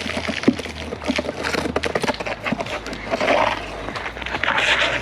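A heavy metal safe being hauled up by hand, knocking and scraping repeatedly as it is dragged, with two loud, heavy breaths from the person pulling it near the end.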